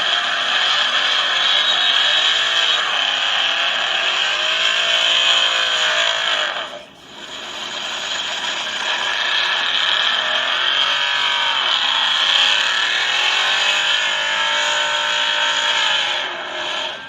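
Car engine sound recording: an engine revving again and again, its pitch rising and falling over a steady rushing noise, with a short break about 7 seconds in.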